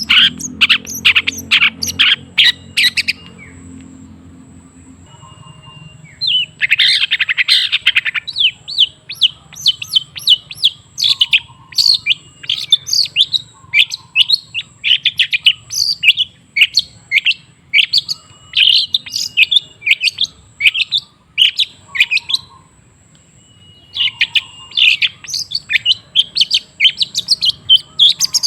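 Long-tailed shrike (cendet) singing in fast runs of short, sharp, high notes, several a second, broken by two pauses of a couple of seconds.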